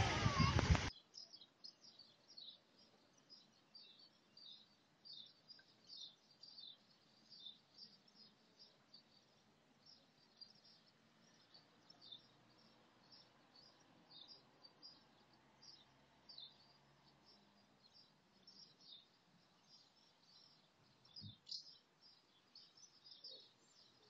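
A loud rush of wind noise cuts off about a second in. Then faint, high-pitched chirping of small birds, short calls a few times a second, with one soft thump near the end.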